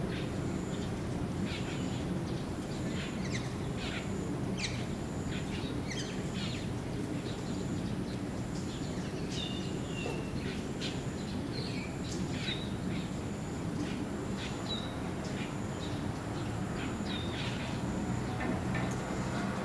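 Birds chirping and calling in short, irregular notes, over a steady low background rumble.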